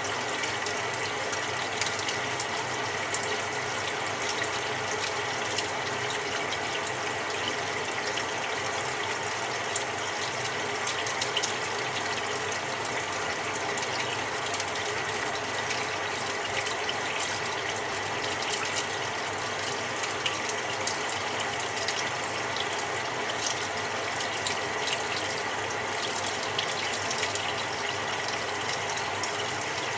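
Samsung 6.5 kg top-loading washing machine filling its drum with water on a cold quick cycle: a steady rush of water with a faint constant whine and small scattered ticks.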